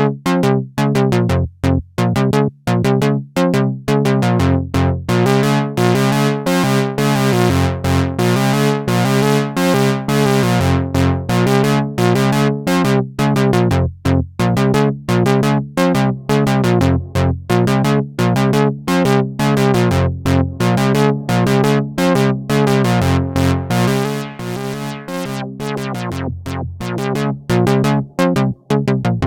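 Behringer 2600 analog synthesizer playing a fast sequenced pattern of short notes over a low figure that repeats about every second and a half. The pattern drops in level for a few seconds near the end.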